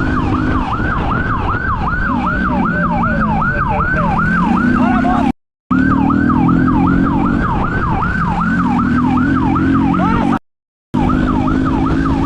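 Police siren on a fast yelp, a falling wail repeating about three times a second, over a vehicle engine whose pitch rises and falls as it speeds up and slows. The sound cuts out completely twice, briefly, a little after five and ten seconds in.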